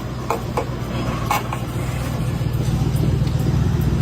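A train rolling along the track: a low rumble that grows louder from about halfway through, with a few sharp clicks near the start.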